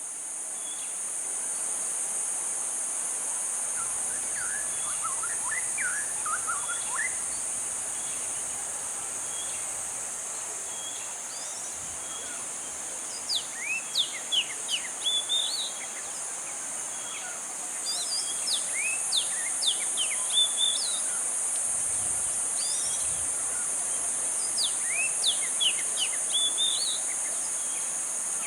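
Birds chirping over a steady, high-pitched insect drone. The bird calls are quick, steeply sweeping chirps that come in bouts, busiest in the second half.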